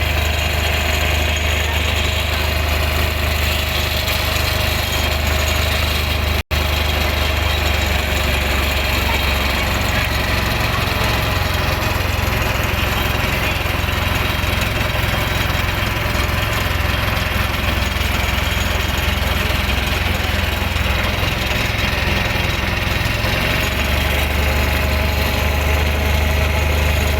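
Motor boat's engine running steadily with a deep, constant low hum, heard from aboard the boat.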